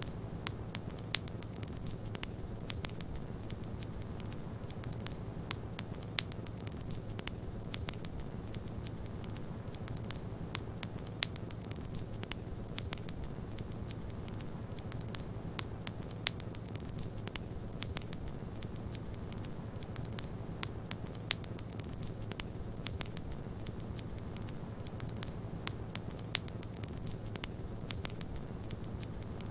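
Wood fire crackling in a fireplace: frequent sharp irregular pops and snaps over a steady low rushing bed, with an occasional louder pop.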